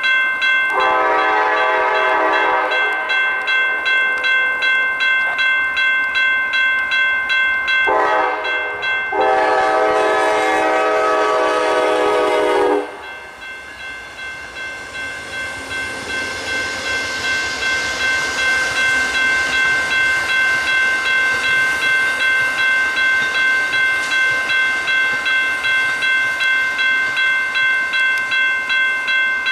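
Railroad grade-crossing bell ringing steadily at about two strokes a second while a train's air horn sounds: one blast near the start, then a short and a long blast. After the horn the train's passing hiss and rumble rises.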